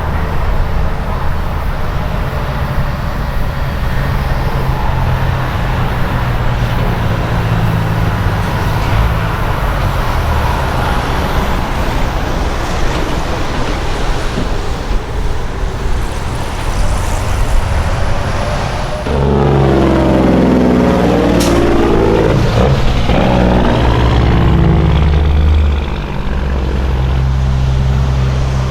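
Diesel semi-truck engines running and trucks rolling by. About two-thirds of the way through, one truck passes close and loud for several seconds, its engine note sweeping as it goes by, then drops away suddenly.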